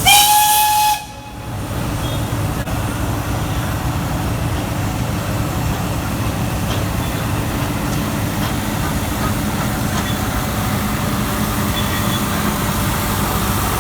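The Nilgiri Mountain Railway train sounds one steady whistle about a second long, then runs with a steady rumbling and clattering noise.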